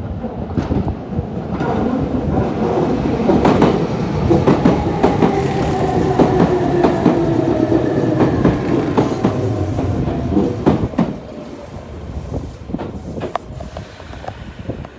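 Electric train passing close by, its wheels clattering over rail joints under a running rumble. A whine slowly falls in pitch as it goes, and the sound eases off about eleven seconds in.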